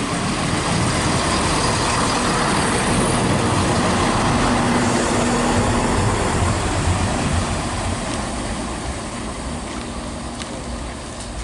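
A train running through the station, its rumble building to a peak about halfway, then fading away.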